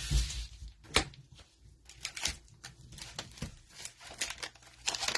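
Trading cards and a cellophane pack wrapper being handled: a sharp snap about a second in, then a run of light clicks and crinkles.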